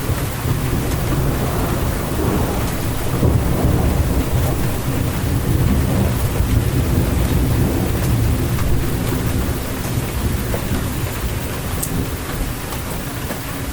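Steady rain with a long, low rolling rumble of thunder that swells through the middle and eases off toward the end, with scattered drips ticking.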